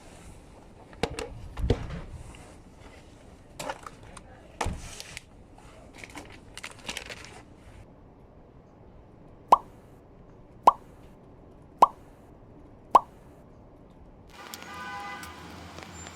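Scattered clicks and knocks, then four short, sharp pops evenly spaced a little over a second apart. Soft music begins near the end.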